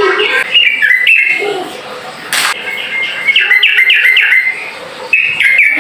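Yellow-vented bulbul (trucukan) singing its rapid 'ropel' song, in quick chattering phrases separated by short pauses. A brief burst of noise comes about two and a half seconds in.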